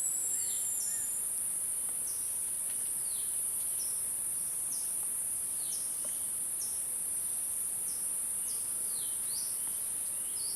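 Steady high-pitched insect chorus, with a bird giving short repeated chirps about once a second over it.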